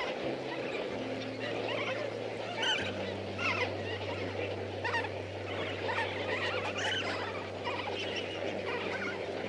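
A flock of flamingos calling: many short, overlapping goose-like honks, over a steady low drone.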